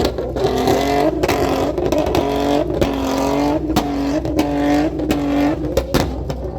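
Car engine revved hard and held at high revs, its pitch jumping up and down in steps, with several sharp cracks.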